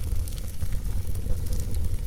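Fire burning in a fireplace: a low, steady rumble with faint, scattered crackles.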